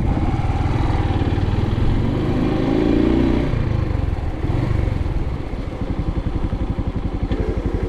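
Suzuki TU250X's single-cylinder engine running, its note rising and fuller through the middle, then settling into a steady, even idle about five seconds in.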